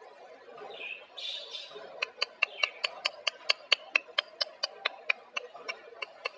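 A parrot gives a short harsh squawk, then a rapid run of sharp clicks, about five a second, for some four seconds.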